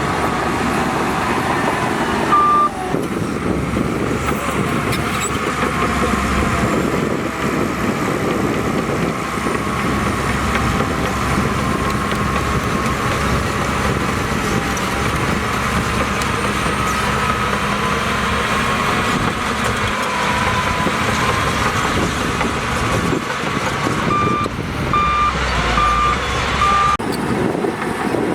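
Heavy diesel earthmoving machinery running steadily, with a reversing alarm beeping once about two seconds in and four times near the end.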